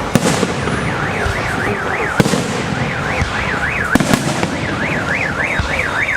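A car alarm warbling, its tone sweeping rapidly up and down, about four to five sweeps a second, in repeated runs, while firework bangs go off a few times: near the start, about two seconds in and twice around four seconds.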